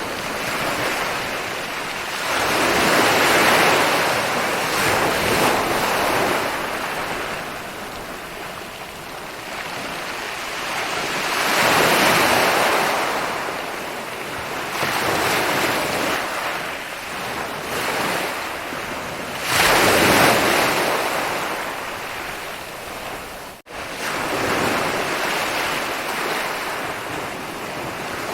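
Ocean surf rolling onto a beach: a steady wash that swells as waves break, with three big surges roughly eight to nine seconds apart. The sound cuts out for an instant about three-quarters of the way through.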